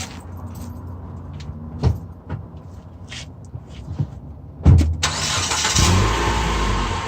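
Mitsubishi Outlander Sport running with a low steady hum and a few scattered knocks. About five seconds in, a broad rushing noise and a deeper rumble set in.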